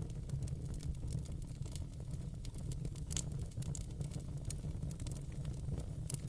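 Wood fire in a fireplace crackling, with a steady low rumble of the flames and frequent small crackles and an occasional sharper pop.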